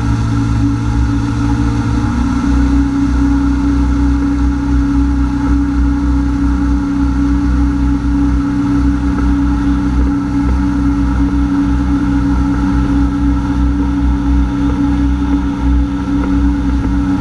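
Honda AquaTrax F-12X personal watercraft's turbocharged four-stroke engine running steadily under way, its pitch stepping up slightly about two seconds in. The ski's turbo has failed, so it makes far less speed than it should at full throttle.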